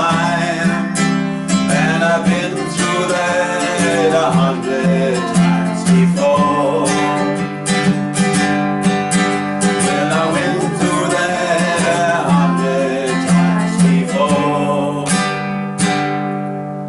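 Acoustic guitar strumming the closing bars of a folk song, the level dropping away near the end as the last chords ring out.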